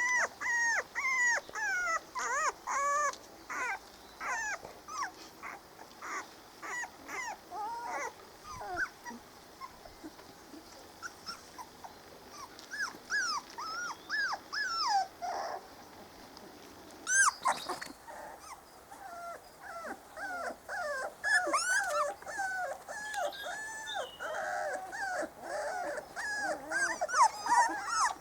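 Four-week-old Spanish Water Dog puppies whimpering and whinging in many short, high-pitched squeaky calls, several overlapping at once in the last third.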